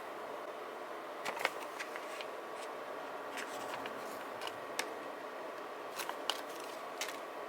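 Desk crafting sounds from handling paper and stickers: scattered light clicks and taps, a few close together about a second and a half in, over a steady hiss.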